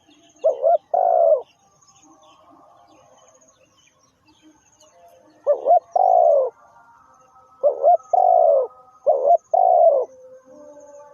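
Spotted dove cooing: a phrase of a short double note and a longer note just after the start, then after a pause of about four seconds three more phrases in quick succession.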